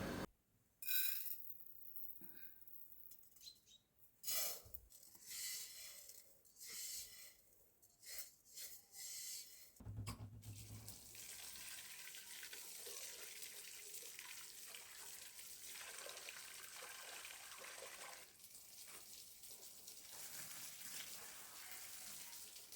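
Water splashing in short, uneven spurts, then running steadily from about halfway through.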